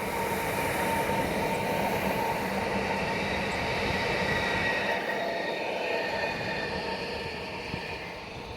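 Electric passenger train passing: a steady rumble of wheels on the rails with thin high squealing tones above it.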